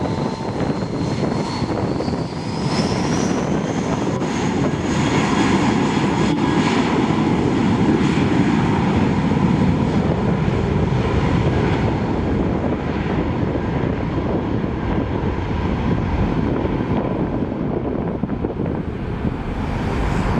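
Jetstar airliner's engines running loud, with a high whine that rises over the first few seconds and then holds steady over a deep roar, loudest towards the middle.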